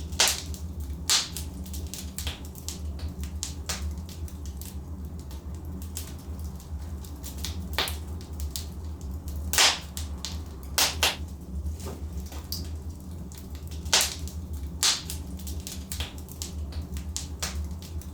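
Wood fire in a fireplace crackling, with irregular sharp pops and snaps from the burning logs, a few of them louder, over a steady low rumble.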